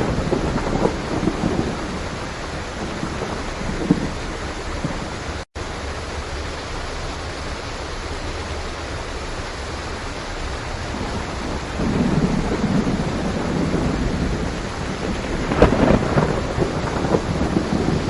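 Steady heavy rain with rolls of thunder rumbling in and out several times. The sound drops out for a split second about five seconds in.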